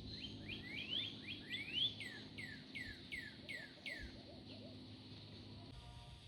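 A songbird singing a rapid series of sweeping notes, first a run of rising notes and then about five falling ones, stopping about four seconds in.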